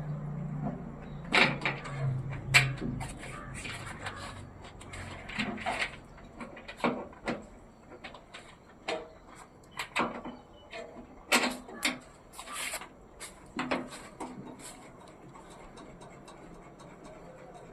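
Irregular knocks and clicks, about a dozen spread over fifteen seconds, with a low hum at the start that fades out within the first few seconds.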